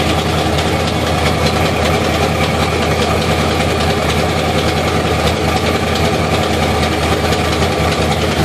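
Twin-turbocharged 383 cubic-inch V8 idling steadily on a test run, fired up to check the turbo plumbing for exhaust leaks.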